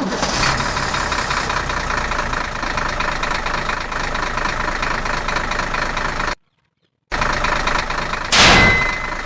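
An engine idling steadily with a rapid, even rhythm. It cuts out completely for under a second about six seconds in, then resumes, and a loud short whoosh comes near the end.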